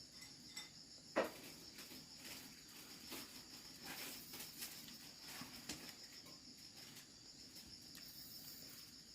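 Insects chirring steadily in a high, even drone, with scattered faint clicks and one sharper knock about a second in.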